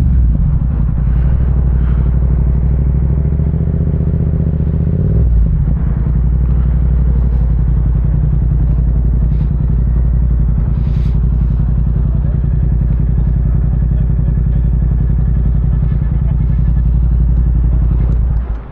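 Yamaha MT-07 parallel-twin motorcycle engine with an aftermarket Akrapovic exhaust idling steadily, then switched off near the end, cutting out abruptly.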